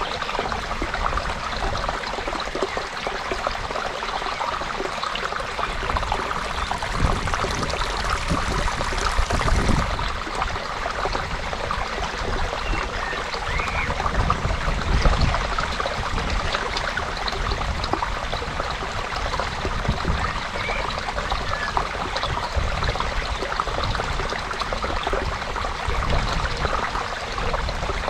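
Creek water flowing and trickling steadily, swelling briefly a few times with a deeper gurgle.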